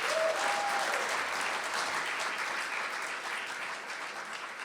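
Audience applauding at the end of a song, the clapping slowly fading, with a short vocal whoop from the crowd near the start.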